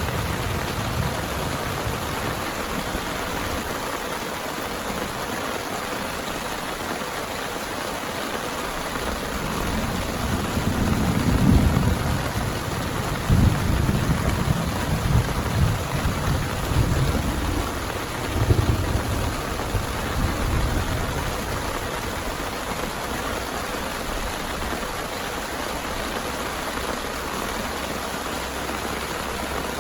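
Steady heavy rain, with thunder rumbling in several low rolls from about ten seconds in, dying away by about twenty seconds.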